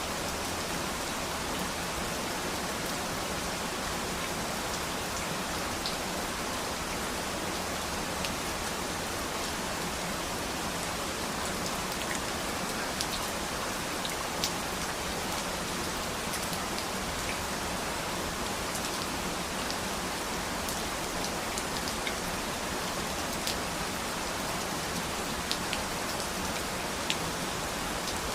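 Steady rain falling, an even hiss with scattered individual drops ticking onto a surface.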